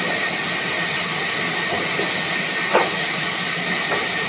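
Steady, loud hissing noise, with two short knocks in the second half.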